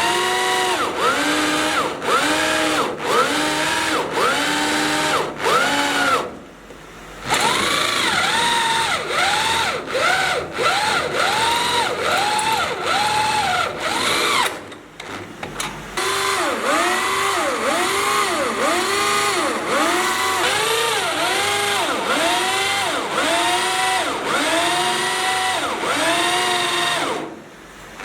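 Power drill boring into steel, its motor whine rising and falling in pitch about twice a second. It stops briefly about a quarter of the way in, again about halfway, and once more near the end.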